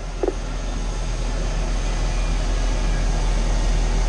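Medevac helicopter coming in to land, a steady rumble of engine and rotor that slowly grows louder.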